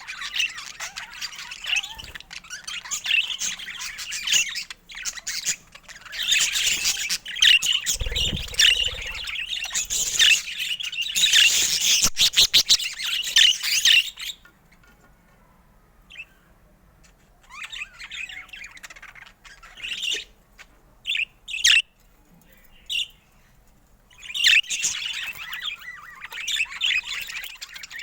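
Budgerigars chattering and chirping in fast, warbling runs with squawks mixed in. The chatter is busiest for the first half, drops to a few scattered calls after a brief lull, and picks up again near the end. There is a low thump about eight seconds in.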